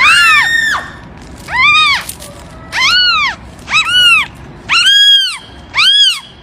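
A cat meowing loudly and repeatedly, about once a second, each meow rising and then falling in pitch.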